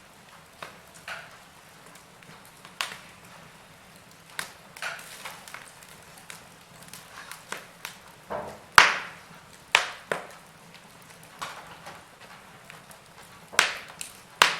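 Wood fire crackling: burning logs giving irregular sharp pops and snaps over a faint low hiss, the loudest pop about nine seconds in and a cluster of louder snaps near the end.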